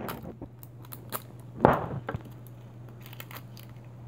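A toy blind-pack wrapper being torn and crinkled open by hand: scattered crackles and clicks, with one louder crackle about halfway through.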